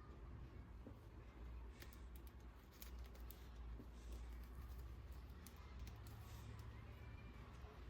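Near silence: a low steady hum with faint, scattered light clicks and taps.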